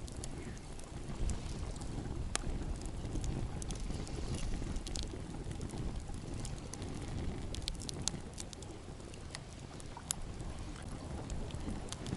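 Wind buffeting the microphone, a steady low rumble, with a few scattered faint clicks.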